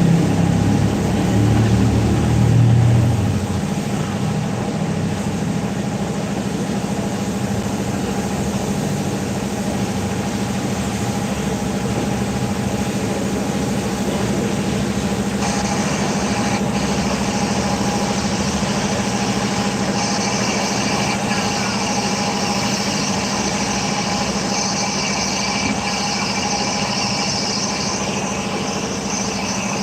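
Steady mechanical hum with a rushing hiss, after a louder low rumble in the first three seconds. A higher hiss joins about fifteen seconds in and grows stronger about twenty seconds in.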